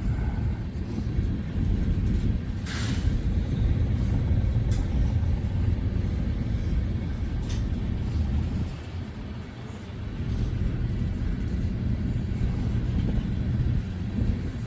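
Freight cars rolling past: a steady low rumble of steel wheels on the rails, with a few brief sharp noises, the strongest about three seconds in.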